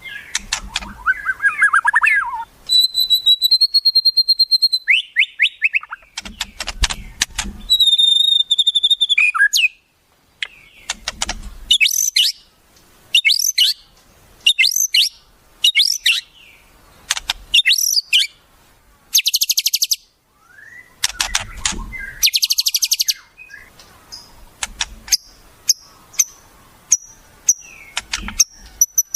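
Songbird calls in a varied sequence: held whistles, rapid clicking trills, quick rising and falling notes and buzzy phrases, separated by short pauses.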